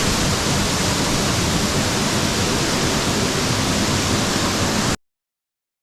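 Steady rushing roar of a waterfall, even and unbroken, that cuts off suddenly near the end.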